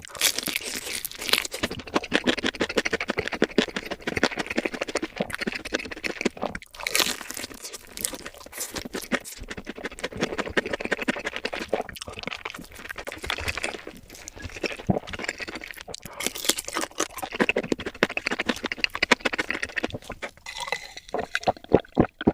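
Close-up eating sounds: a person chewing crispy fried fast food, with a dense run of irregular crunches and crackles.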